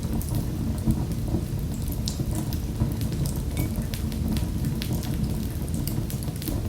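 Wood fire in a fireplace crackling: a steady low rumble of the flames with scattered sharp pops and crackles.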